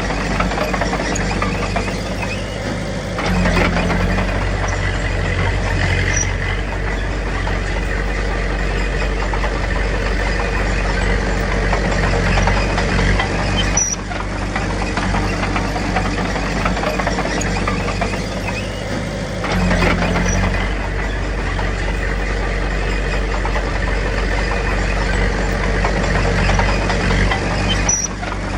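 Diesel engine of heavy earthmoving machinery running steadily, getting louder and deeper under load about three seconds in and again about twenty seconds in, with brief dips in between.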